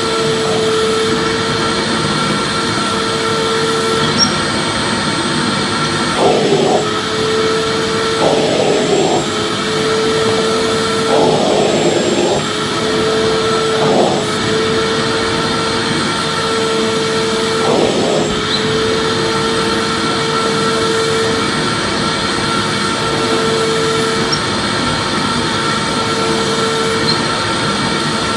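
Vacuum cleaner running continuously: a steady, loud whoosh of motor and airflow with a constant hum and whine. The tone wavers briefly a few times between about six and eighteen seconds in.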